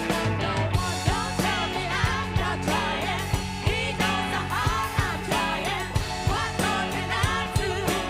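Live funk and soul band playing a groove with a steady drum beat and bass, a lead line sliding up and down in pitch over it.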